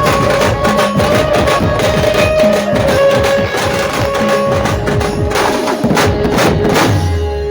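Dhumal band music: rapid, dense drumming under a held melody line, breaking off with a low thump near the end.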